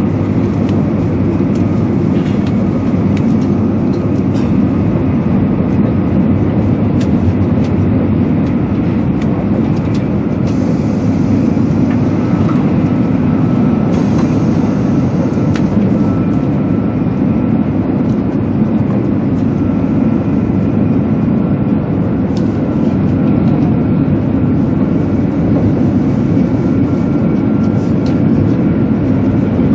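Steady running noise of a 200 series Shinkansen heard inside the passenger car at speed: a dense, low rumble of wheels on rails with a faint steady whine above it. Two short stretches of brighter hiss come around the middle, as the train passes a cutting.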